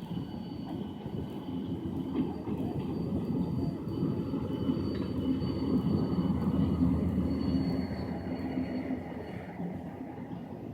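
Train hauled by a GT-22 diesel-electric locomotive rolling by with a steady low rumble, which grows louder towards the middle and then eases off.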